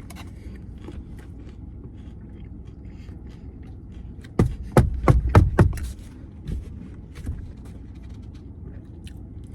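A burger being handled and bitten into: scattered small clicks and rustles over a steady low rumble, with a cluster of louder, sharp crackly sounds about four and a half to six seconds in.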